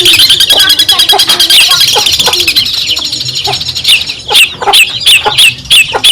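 Long-tailed shrike (cendet) singing: a fast, dense chattering run of high notes, then from about four seconds in a series of loud, sharp calls, each sweeping down in pitch, about three a second.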